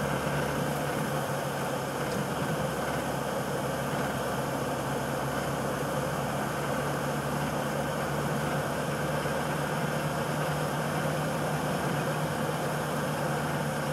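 Land Rover driving slowly along a snow-covered road, heard from inside the cab: a steady engine drone mixed with tyre and road noise.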